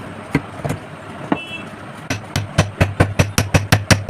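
Hammer tapping on metal: a few single knocks, then a quick, even run of blows about seven a second starting about two seconds in, as used to knock a motor bearing on or off its shaft.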